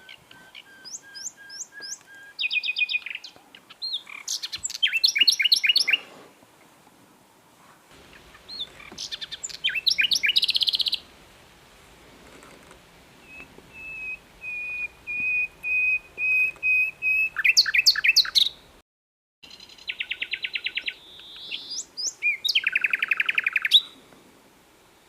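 Common nightingale singing in separate phrases of fast repeated notes and trills, with pauses between. One phrase is a run of piping whistled notes, about two a second, growing louder. The sound cuts out briefly about three-quarters of the way through.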